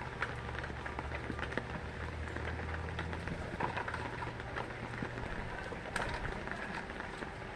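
Heavy rain falling, with drops ticking on nearby surfaces. A low steady hum runs under it for the first five seconds or so.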